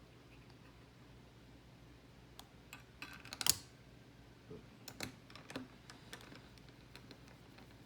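Scattered small clicks and taps of metal and plastic CPU-cooler mounting-bracket parts being handled and refitted on a motherboard, the loudest a little past three seconds in. A faint steady low hum sits underneath.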